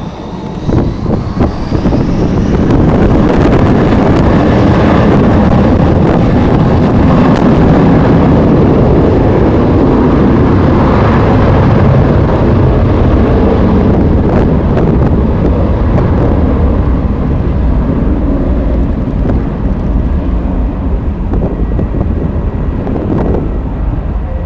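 Jet airliner's engines running at high power, the noise building over the first two or three seconds and then holding steady, with wind buffeting the microphone.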